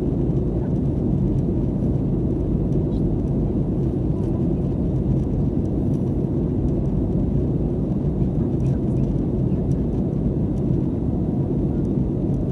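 Steady low drone of an airliner's engines and airflow heard from inside the passenger cabin, even and unchanging throughout.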